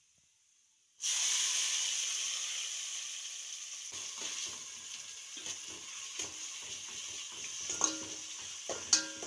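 Crushed onion, tomato and green chilli hitting hot coconut oil in a metal pot: a sudden loud sizzle about a second in that slowly dies down. From about four seconds in, a metal spoon scrapes and knocks against the pot as the mixture is stirred, with a few sharper knocks near the end.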